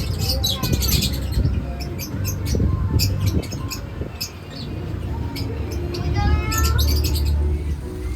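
Birds squawking and chirping in a series of short, sharp calls over a steady low rumble.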